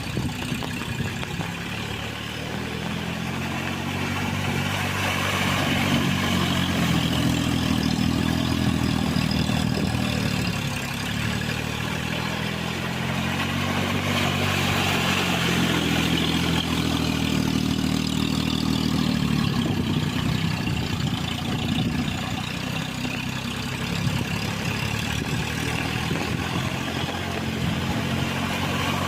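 John Deere mini tractor engine running with its rotavator working, the engine's pitch and loudness rising and easing off twice as the load and speed change.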